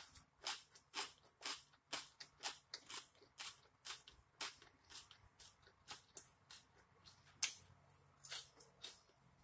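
A person chewing a mouthful of grilled steak and vegetables, a chew about twice a second, the loudest a little past the middle.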